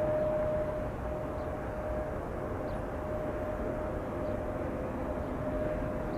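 Steady jet engine rumble of an arriving Boeing 777-200 airliner, with a thin steady tone running through it.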